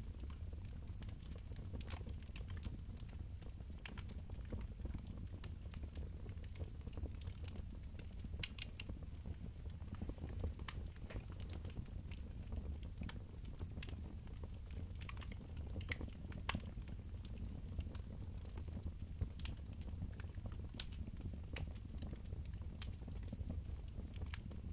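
Wood fire burning in a fireplace, crackling and popping irregularly over a steady low rumble.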